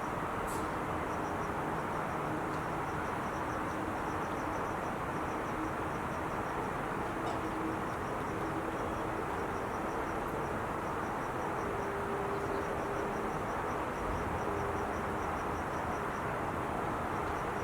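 Steady roar of traffic on the I-5 freeway, an even wash of tyre and engine noise. A high, rapid chirping repeats in short runs over it.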